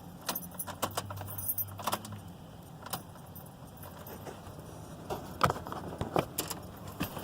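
Car keys jangling and clicking in the ignition as the key is turned on a car that will not start, with no engine cranking heard. Scattered sharp clicks sit over a faint steady low hum.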